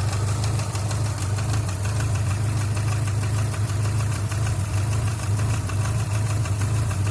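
Subaru flat-four boxer engine idling with a steady, rapid ticking knock. The owner suspects a poor-quality timing-belt tensioner rather than internal engine damage.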